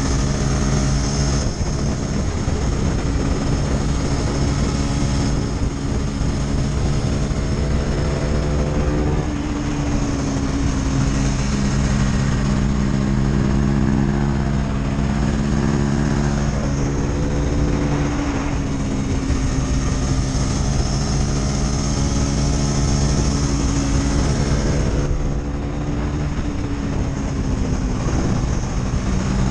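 KTM 250 Duke single-cylinder engine running loud and steady, its pitch climbing in stretches and dropping back several times.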